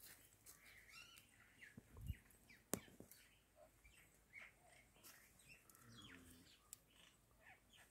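Faint, scattered bird chirps, with a low thump and then a single sharp click about a third of the way in.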